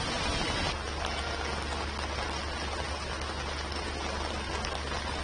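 Heavy rain falling, a steady hiss of rain on surfaces, with a low steady hum beneath it.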